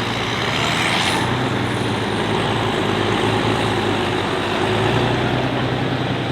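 Light-limited pro stock pulling tractor's turbocharged diesel engine running steadily between hooks, with a brief rising whistle about a second in.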